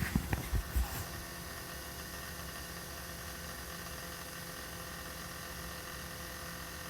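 Steady electrical hum with several fixed tones from somewhere inside a 2020 Toyota Corolla: something in the car is still running seven hours after it was switched off. A few low knocks in the first second.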